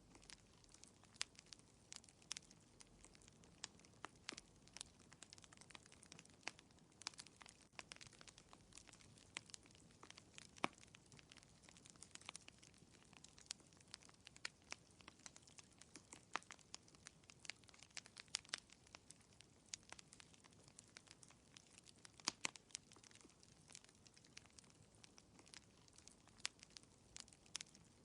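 Wood fire crackling in a fireplace: faint, irregular pops and snaps, several a second, over a soft low hiss.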